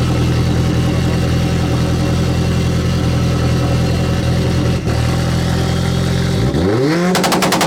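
Subaru flat-four engine running loud through its exhaust at steady held revs, then revved sharply upward. Near the end comes a rapid crackle of exhaust pops.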